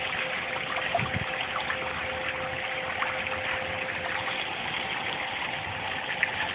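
Water splashing and pouring steadily into a koi pond, with a faint steady hum underneath.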